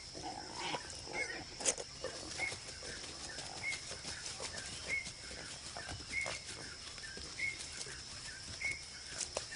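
Rainforest ambience: a steady high-pitched drone, with a short chirping call that repeats about every second and a quarter, and scattered sharp clicks and knocks.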